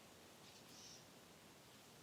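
Faint, steady wind through trees, heard as a soft even hiss. A short high chirp sounds about half a second in.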